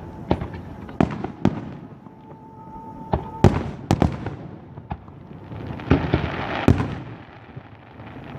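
Aerial fireworks bursting in a show: a string of about ten sharp, irregular bangs, with a hiss that swells and fades around the middle.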